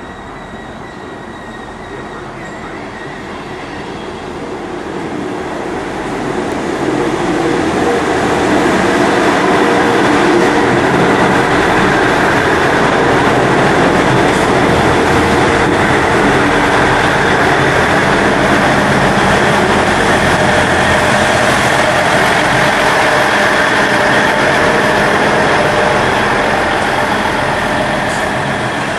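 A passenger multiple-unit train passing close by on the rails: it builds up over the first several seconds, stays loud for about twenty seconds as the carriages go past, then starts to fade near the end.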